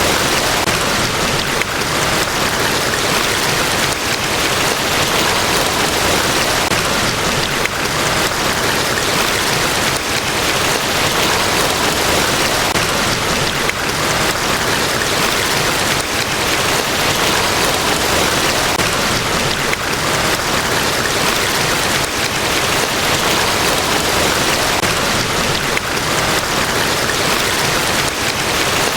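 Large waterfall: a loud, steady rush of falling water, an even wash of noise with no breaks or changes.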